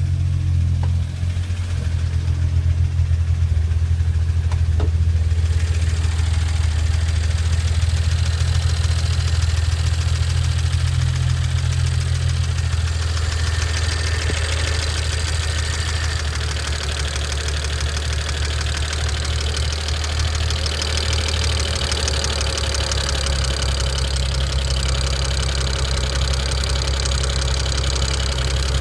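BMW N54 twin-turbo straight-six of a 2009 335i running with a loud, fast ticking over the steady engine note; the ticking grows stronger in the second half. The owner holds it to be not the usual direct-injection injector tick, since it began after a JB4 tuner firmware update.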